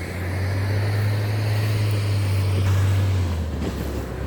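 A vehicle passing close by: a steady low engine hum that grows louder, then drops in pitch about three seconds in as it goes past.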